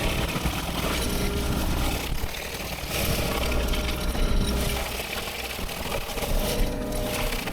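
Heavy machinery engine running steadily, with a rough scraping noise that swells and fades every second or two as the machine works through brush.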